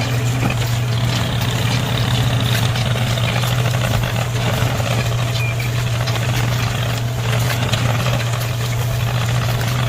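A motor or engine running steadily, with a constant low hum and an even rush of noise and no change in speed.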